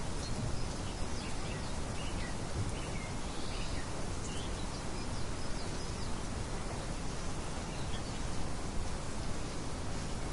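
Steady wind noise, with faint bird chirps scattered through the first half.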